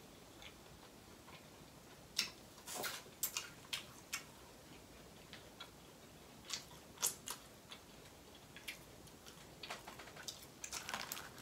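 Close-miked chewing with the mouth closed: soft, irregular wet mouth clicks and smacks, bunched about two seconds in and again near the end.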